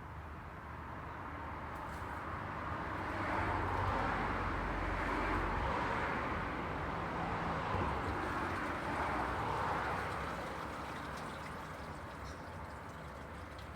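Road traffic going by: the hiss of tyres and engine noise swells over a few seconds, stays up for several seconds as vehicles pass, then eases off again.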